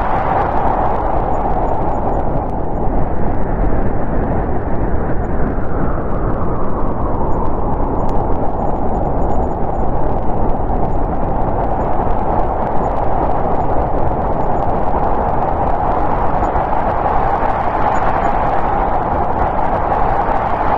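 Winter storm wind blowing steadily, with a whistling band that rises and falls slowly in long gusts, strongest near the start and end.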